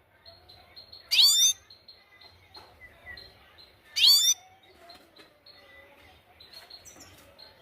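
Grey-headed goldfinch calling: two loud, short, sharp calls about three seconds apart, one a second in and one about four seconds in, with fainter chirps between.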